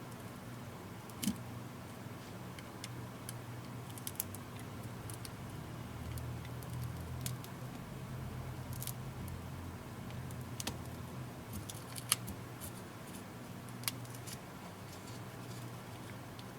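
Scattered small sharp clicks and ticks of a prying tool working under the glued screen of a Samsung Galaxy Tab 3 tablet, the adhesive around the bezel giving way, over a low steady hum.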